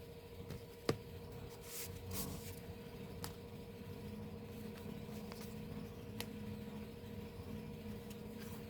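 Small handling noises: a sharp click about a second in, a brief rustle of packaging around two seconds, and a few lighter clicks later, over a steady faint electrical hum and a low background murmur.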